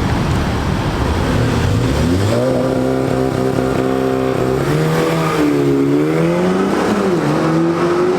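Motor vehicle engine under load: a low rumble that rises in pitch about two seconds in and then holds high and steady, with a short drop and climb again near the end.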